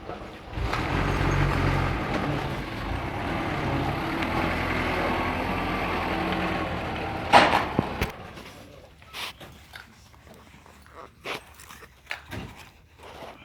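Truck engine running steadily, with a short loud hiss-like burst about seven seconds in. The engine sound stops suddenly about a second later, leaving scattered light knocks and clicks.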